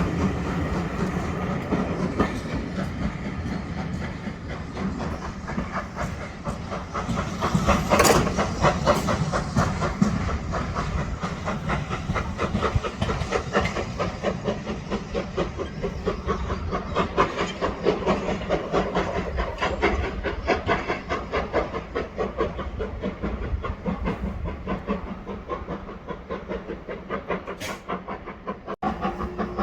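Steam locomotive pulling a train away from a station: fast, even exhaust beats and wheels clicking over the rails, with a louder burst of noise about eight seconds in, then slowly fading as it draws off.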